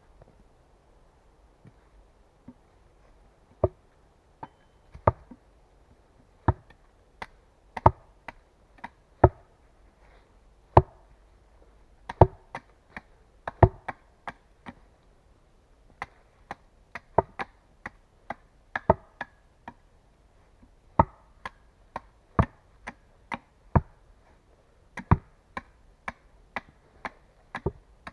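Wood being chopped by hand: a long series of sharp, irregular knocks, roughly one or two a second, some much louder than others.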